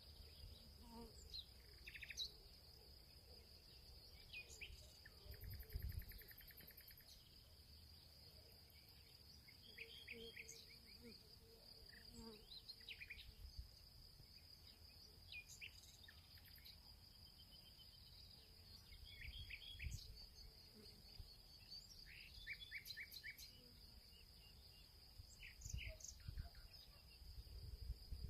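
Faint field ambience: a steady high-pitched insect trill runs throughout, with scattered short bird chirps, several in quick runs of three or four notes. A few low rumbles come and go.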